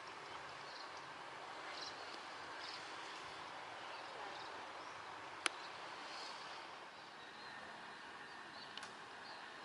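Faint outdoor ambience: a steady background noise with scattered short bird chirps, and one sharp click about five and a half seconds in.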